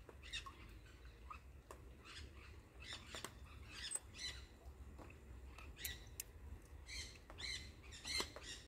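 Birds calling in short, repeated high calls, about one or two a second, faint.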